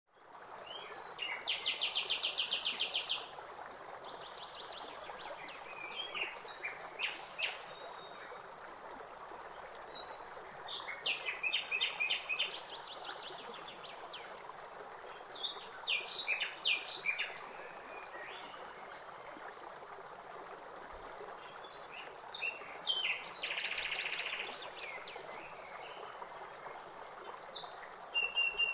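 Small birds chirping and singing in short repeated phrases, some of them rapid trills, every few seconds over a steady background hiss.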